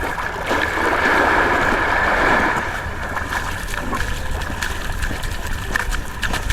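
Paddle splashing and water sloshing around a paddleboard, with a burst of rushing water in the first couple of seconds. Wind buffets the microphone throughout.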